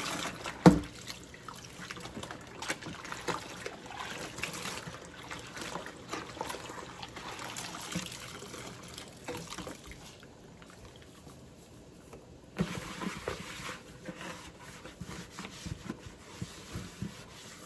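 Kitchen faucet running while a pan is washed by hand, with clinks and knocks of dishware and one sharp knock under a second in. The running water drops away for a couple of seconds about two-thirds of the way through, then starts again.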